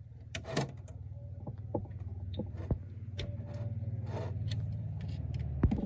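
Small old gasoline engine running with a steady low rumble, scattered sharp clicks and knocks over it, then stopping abruptly near the end.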